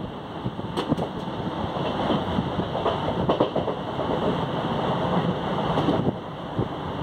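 Train running along the track, heard from the moving coach: a steady rumble of wheels on rails with irregular knocks and rattles, and wind on the microphone.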